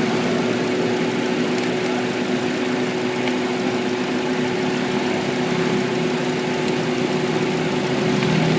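Honda Accord engine idling steadily and smoothly with its ignition coil seated again: the misfire is gone.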